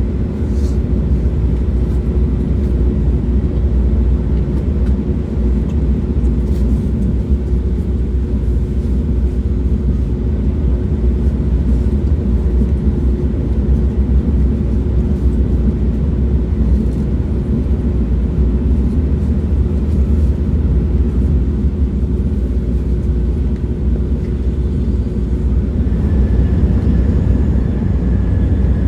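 Moving train, a steady low rumble with a constant hum running through it; a faint higher whine comes in near the end.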